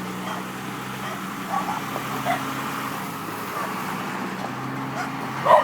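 A 1998 Blue Bird school bus on a Ford chassis, its engine running with a steady low drone that stops just before the end.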